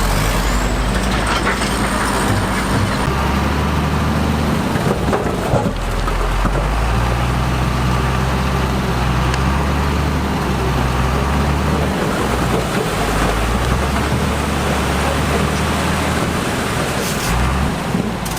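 Heavy diesel construction machinery running steadily, its engine note shifting every few seconds as the load changes, with a few sharp knocks.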